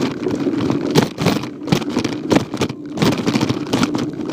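Bicycle ride noise picked up by a phone mounted on the handlebars: a steady rolling rumble with frequent irregular knocks and rattles as the bike goes over bumps.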